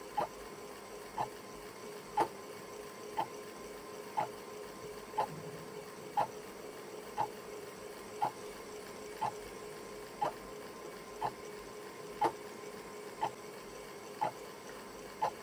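Clock ticking evenly, once a second, over a steady hum.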